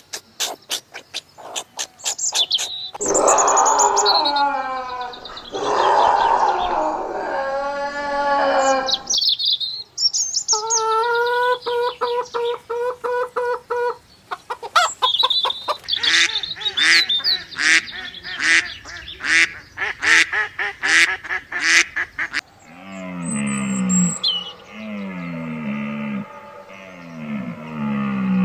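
Several different animal calls one after another. Rapid chirps and clicks open it. Falling pitched calls come about three seconds in, a steady held call near the middle, and a long run of quick repeated calls after that. Low, falling calls come near the end.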